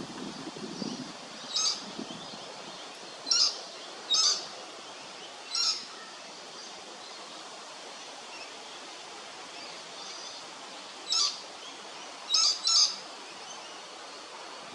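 Lewin's honeyeater giving short, sharp calls: four spaced over the first six seconds, then after a pause of several seconds three more close together, over a steady faint background hiss.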